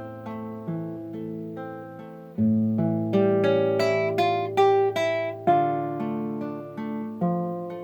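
Acoustic guitar music: a plucked melody, about two notes a second, over held bass notes that change twice.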